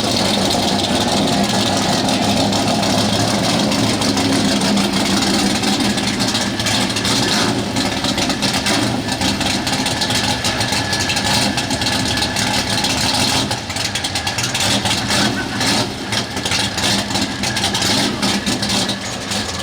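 Super street class pulling pickup's engine running loudly and steadily, a continuous low engine drone with a dense rush of noise over it, easing slightly a few times in the second half.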